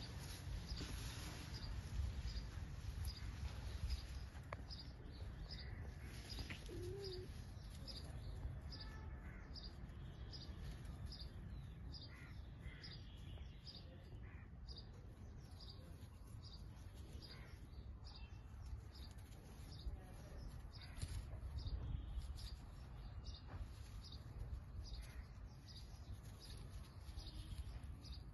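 A bird's short high chirp, repeated steadily about one and a half times a second, over a low rumble on the microphone.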